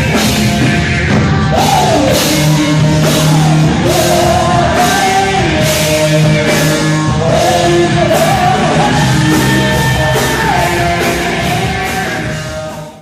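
Loud rock band music with a singer's voice over a steady drum beat, fading out right at the end.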